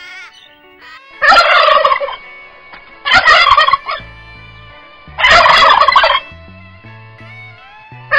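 Three loud, rapid rattling bird calls about two seconds apart, each under a second long, with a fourth starting at the very end.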